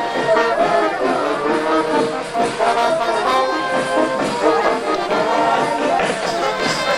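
Brass band music, with several horns such as trombones and trumpets playing together.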